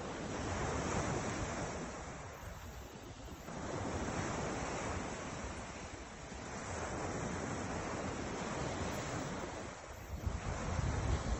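Ocean surf washing ashore in slow surges, swelling and falling back about every three seconds. Wind buffets the microphone near the end.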